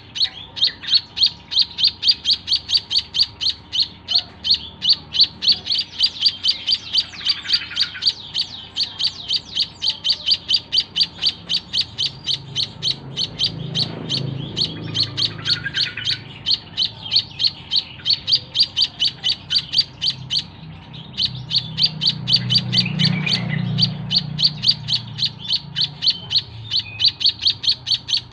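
White-headed munia (emprit kaji) giving a rapid, steady run of short high chirps, about three or four a second, with two brief pauses. A low rumble sounds underneath twice.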